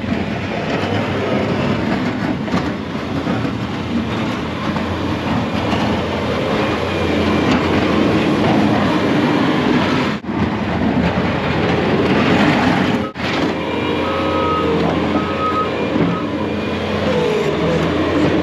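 A snow-plow truck running steadily, a continuous rumble of engine and road noise, broken by two brief drop-outs about ten and thirteen seconds in.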